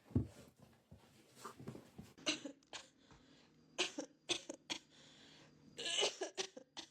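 A pet making a series of short, breathy, sneeze-like sounds, several in a row with pauses between.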